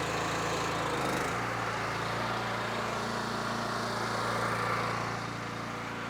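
Belt-drive pressure washer's Honda GX390 single-cylinder engine running steadily, drawing water from the buffer tank; its note shifts slightly about a second in.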